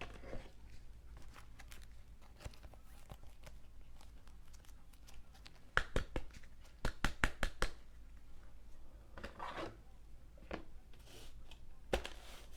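Trading cards being handled and slid into soft plastic sleeves: light taps and clicks, with a quick run of sharp clicks about six seconds in, and soft plastic crinkling and rustling.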